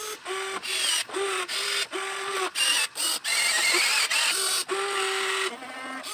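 Small electric gear motors of a WLtoys XK 16800 RC excavator whining in a string of short start-stop spurts, each a steady tone, as its controls are worked.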